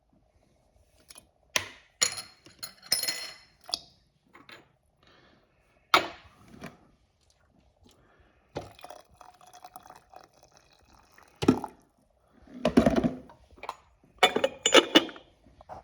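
Crockery clinking and liquid being poured: a string of sharp clinks and knocks, some ringing, with a busier cluster near the end.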